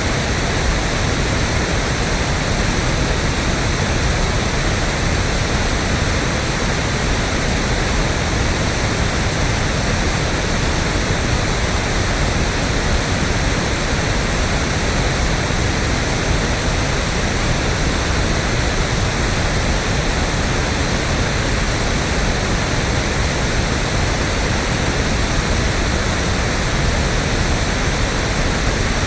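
Electronically generated pink noise: a steady, even hiss with strong low end, like a waterfall or surf, unchanging throughout.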